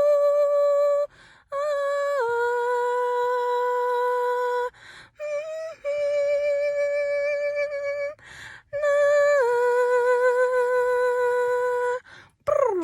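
A woman's voice sings long wordless held notes a cappella, humming or an open "ooh". Several of the long notes step down to a lower pitch partway through, and short breath gaps separate them.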